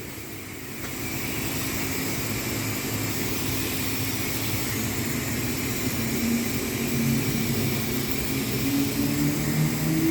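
Self-serve car wash wand spraying high-pressure water: a steady hiss that starts about a second in, with a low hum underneath.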